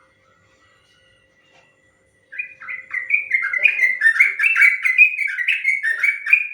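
Yellow-vented bulbul (trucukan) singing a long, fast run of bubbly, warbling notes, starting about two seconds in.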